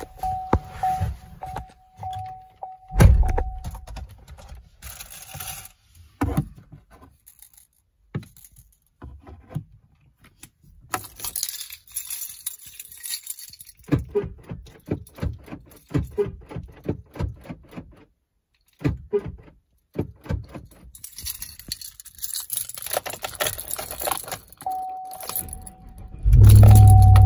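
Keys jangling and small clicks and rattles inside a 2018 Chevrolet Silverado, with a steady electronic warning chime tone in the first few seconds and again near the end. About a second before the end, the truck's engine starts with a sudden loud low rumble and keeps running.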